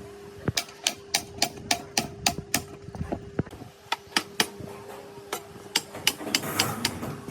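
A series of sharp taps or knocks, about three a second for a couple of seconds, then more spaced out and irregular, over a faint steady hum.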